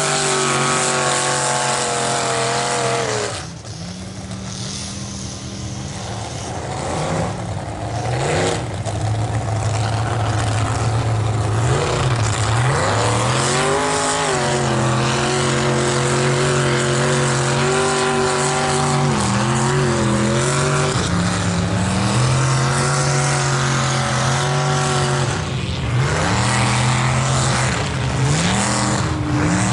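Mega mud truck's engine running hard, its pitch rising and falling again and again as the throttle is worked. The revs and loudness drop back about three seconds in, then climb again from about six seconds and stay high with repeated swoops.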